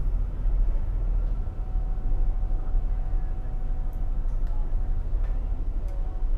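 Low, steady rumble of a ship's diesel engines, with a faint steady hum above it.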